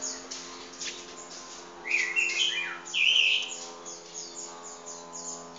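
Small birds chirping: rapid, short high chirps throughout, with two louder warbling calls about two and three seconds in.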